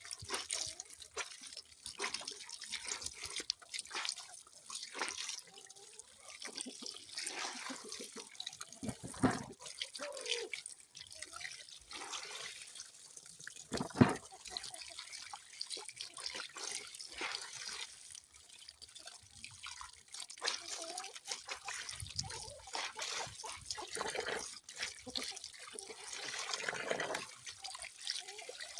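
Water dripping and splashing in an irregular, continual patter. Two louder splashes come about 9 and 14 seconds in.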